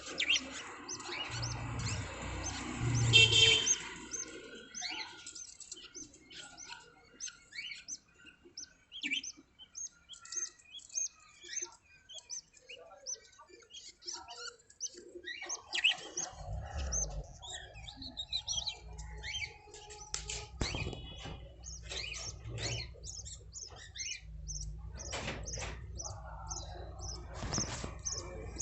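Budgie chicks chirping: many short, high chirps, busiest and loudest in the first few seconds. A low rumble sits underneath from about halfway through.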